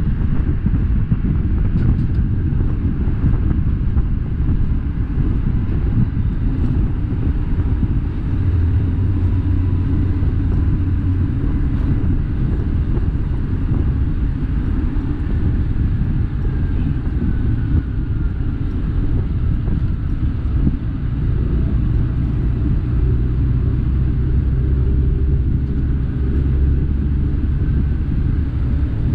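Steady engine rumble and road noise from a vehicle on the move. The low drone swells for a couple of seconds near the first third and again through the last third.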